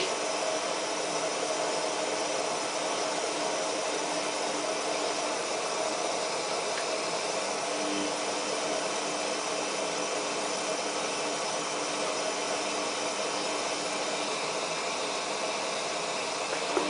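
Samsung WF8804RPA washing machine filling with water through its inlet valve in service mode, a steady rushing hiss with a faint low hum that comes and goes.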